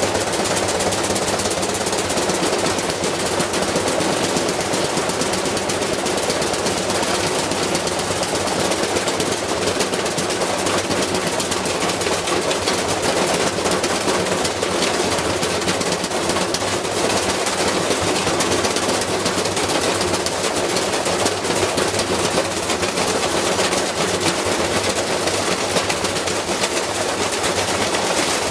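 Washing machine spinning with a brick loose in the drum, the brick banging against the drum in a rapid, continuous clatter over the steady hum of the motor.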